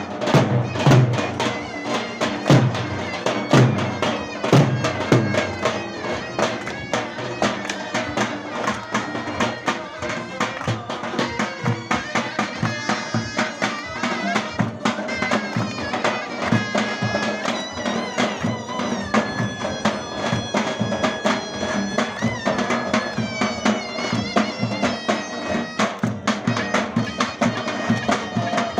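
Zurna shawm playing a shrill, ornamented folk dance tune over the beat of a davul bass drum. The drum strokes are heaviest in the first few seconds.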